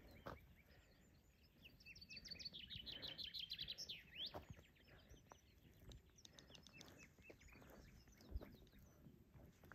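A small songbird singing faintly: a fast run of high, repeated chirps ending in a rising note, then scattered shorter chirps.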